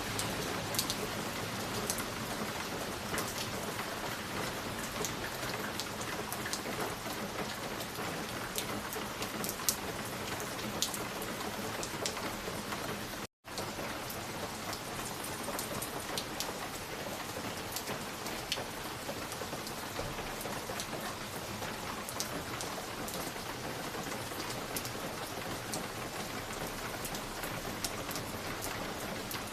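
Steady ambience hiss with scattered small crackles and clicks, the kind heard from a crackling log fire or rain. The sound drops out for a split second about thirteen seconds in, then resumes unchanged.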